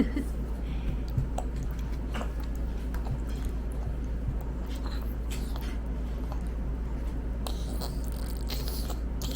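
A toddler eating: small biting and chewing sounds with scattered light clicks, over a steady low hum.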